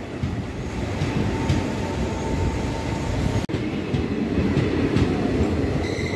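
A passenger train of older Indian Railways coaches rolling past a platform: a steady rumble with clatter of the wheels on the rails. The sound breaks off briefly about three and a half seconds in.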